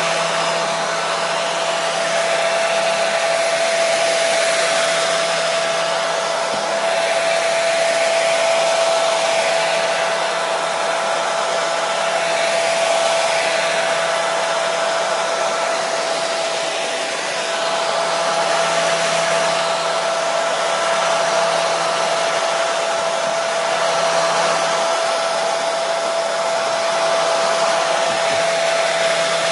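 Hair dryer running steadily: a constant rush of air with a steady motor hum, swelling slightly now and then.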